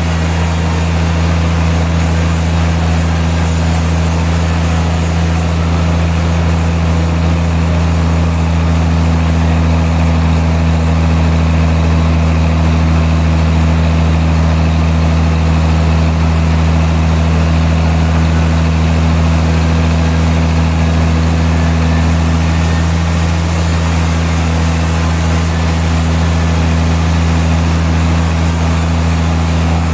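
Sawmill machinery running at a constant speed: a loud, steady low engine hum that does not change throughout.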